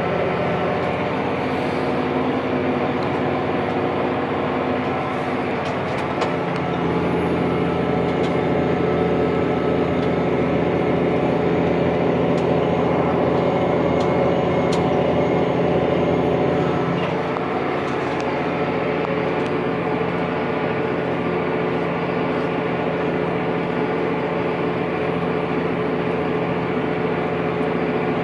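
Tractor's diesel engine running steadily under load, its note shifting about six seconds in and again about seventeen seconds in.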